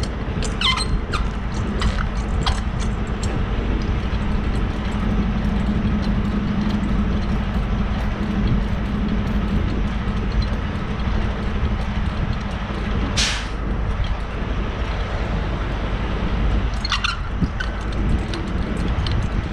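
A semi truck's diesel engine idles with a steady low hum. A few evenly spaced clicks come in the first three seconds, and a short hiss comes about two-thirds of the way through.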